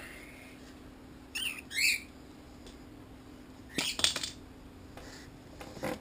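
Pet bird squawking in short high calls: a pair of quick calls about a second and a half in, a louder harsh squawk around four seconds, and a brief one near the end.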